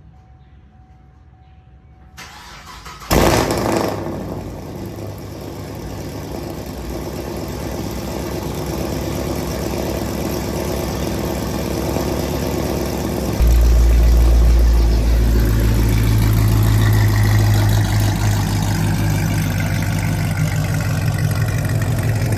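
Cold start of a 2011 Camaro 2SS's 6.2-litre V8 through long-tube headers with the muffler and resonators deleted: the starter cranks briefly, the engine catches with a loud flare about three seconds in, then settles into a fast, steady cold idle. About halfway through, a deep low drone becomes much louder and stays.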